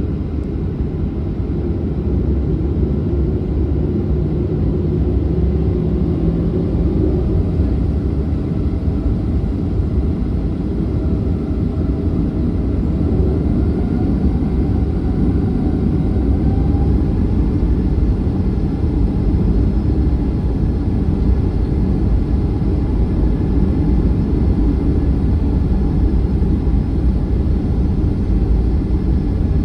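Jet engines of a Boeing 737-900, CFM56-7 turbofans, running with a steady low rumble that grows slightly louder over the stretch, with a faint tone that rises in pitch about halfway through.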